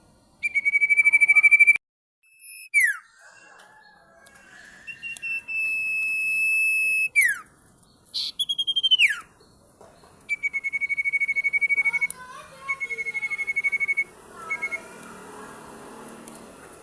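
Sirtu songbird singing a loud, shrill song: long rapid trills held on one high pitch, alternating with steady whistled notes that end in sharp downward sweeps.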